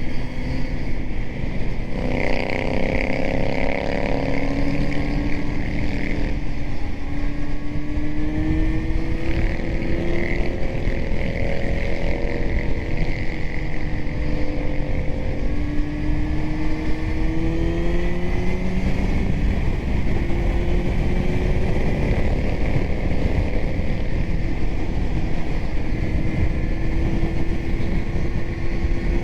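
Kawasaki Z900's inline-four engine through a titanium Arrow exhaust, running under way, its note rising gradually as it pulls and dropping back a few times, over heavy wind rush.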